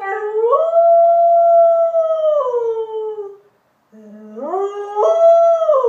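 Dog howling: two long howls, each rising in pitch, holding, then falling away. The second starts lower and begins about four seconds in.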